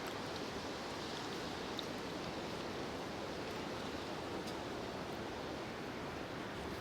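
Strong, gusty blizzard wind outside a hot tent, heard from inside as a steady rushing noise.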